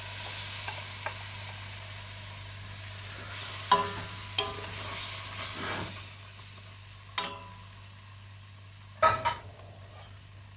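Cooked dal added to a hot pan of fried onion, vegetables and spices sizzles, then fades as it is stirred in, with a spoon knocking against the pan about four times.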